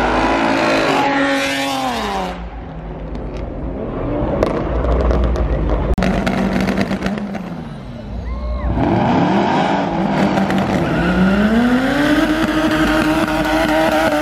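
Street-racing cars at full throttle: one engine's note drops away in the first two seconds, then after a quieter stretch with a few sharp crackles, another engine accelerates hard, its note climbing steeply and holding at high revs.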